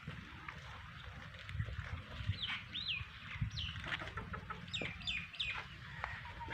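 Chickens clucking, a run of short, high, bending calls starting about two seconds in, over a steady low hum.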